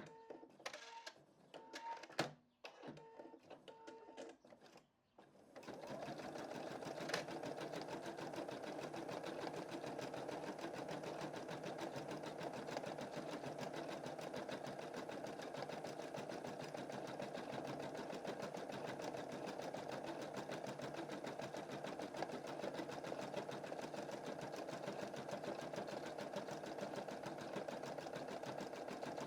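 Computerized embroidery machine: a few clicks and short beeps, then about five seconds in it starts stitching, a steady, fast rhythm of needle strokes that runs on evenly.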